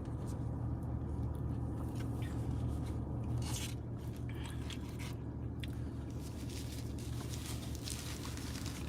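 Someone eating a pecan Blizzard: faint scraping and crunchy chewing over a steady low hum.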